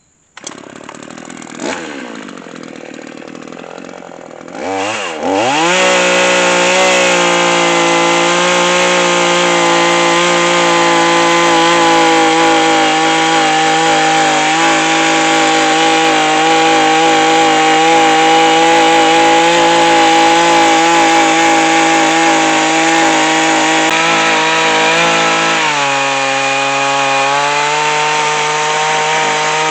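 Two-stroke chainsaw in an Alaskan chainsaw mill, running quietly for a few seconds, then revving up about five seconds in and running at steady high throttle as it cuts along the log to level it. Its pitch drops about four seconds before the end as the engine comes under heavier load.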